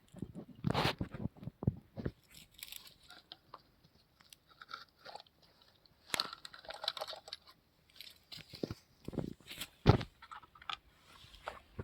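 Toy vehicles knocking and scraping in irregular clusters of short clicks and crunches, with a quieter stretch in the middle and a sharp knock near the end.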